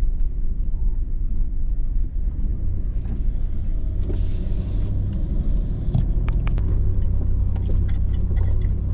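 Hummer H2's V8 engine and drivetrain rumbling steadily at crawling speed on a rough trail, heard from inside the cab, with scattered clicks and rattles and a brief hiss about four seconds in.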